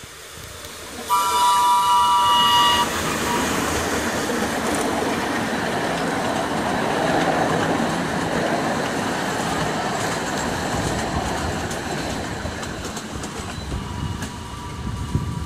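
A miniature park railway train on 381 mm-gauge track sounds its horn, one loud blast of about two seconds a second in. The train then rumbles and clatters past, and the horn sounds again, fainter, near the end.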